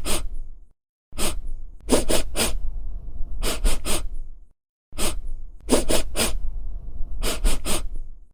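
Short, sharp breathy bursts from an animal, in quick groups of three, the same few-second clip repeating with brief silent gaps between.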